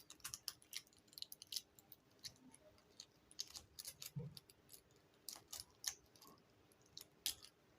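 Faint, irregular little clicks and crackles as pups (crownlets) are tugged off a pineapple by hand.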